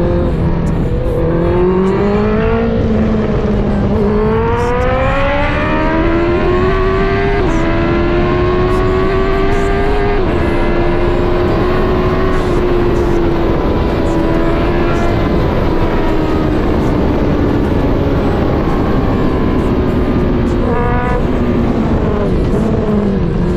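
Honda CBR650R's inline-four engine, on a full aftermarket exhaust, accelerating through the gears. The pitch climbs and drops back at each upshift, then holds at a steady cruise. Near the end come a few quick rev blips as it downshifts, and the revs fall away, all over a constant rush of wind noise.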